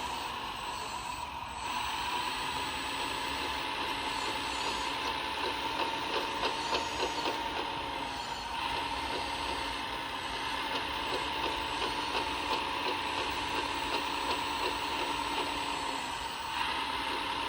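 Radio-controlled model truck running: a steady whine with a fast stream of small mechanical clicks, briefly dropping off near the start and again near the end.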